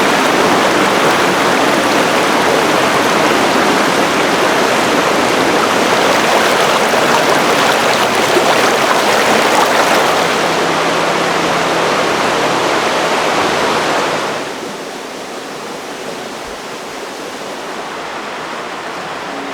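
Rushing water of a mountain stream, a steady loud rush. About fourteen seconds in it turns quieter and duller.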